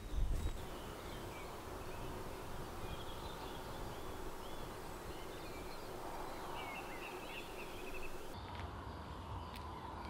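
Footsteps on a forest path stop about half a second in. Quiet outdoor ambience follows, with a faint steady hum and scattered small bird chirps in the middle of the clip.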